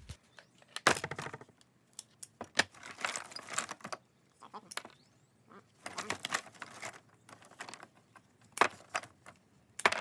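Scrap metal and wire being handled: small metal pieces clinking and rattling, with scattered sharp clicks.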